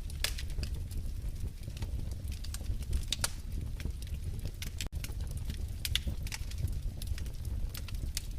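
Wood fire crackling in a fireplace: irregular sharp pops and snaps over a low steady rumble. The sound cuts out for a split second about five seconds in.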